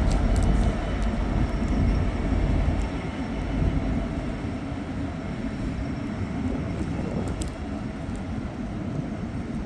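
Container wagons of a freight train hauled by a Class 66 diesel rolling slowly past, a low rumble that eases about three seconds in and then runs on steadily, with a few faint clicks.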